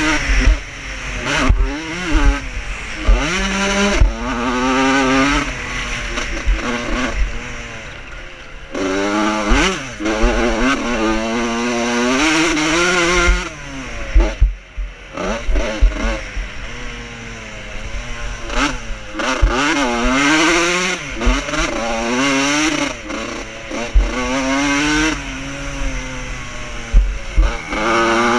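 Vintage motocross motorcycles racing, engines revving up and falling back again and again as riders work the throttle and gears. Short low thumps come and go under the engine sound.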